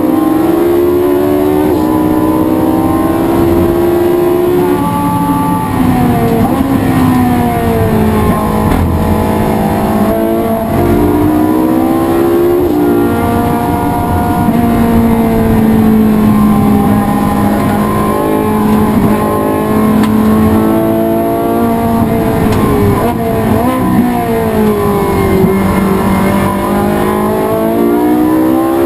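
Race car engine at speed on a circuit. Its pitch climbs slowly through each gear, then drops sharply several times as the car shifts and brakes for corners.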